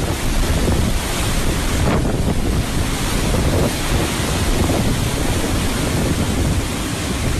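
Hurricane-force storm wind blowing across the microphone, mixed with heavy surf; a loud, steady rush of noise.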